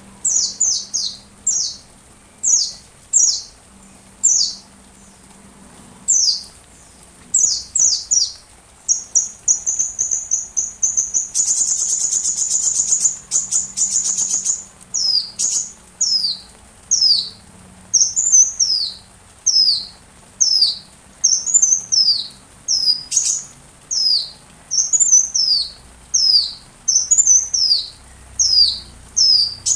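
A sunbird singing a long run of short, high, thin chirps, each sweeping downward, about two a second. Near the middle they merge into a rapid buzzing trill for several seconds, then resume as hooked, down-slurred notes.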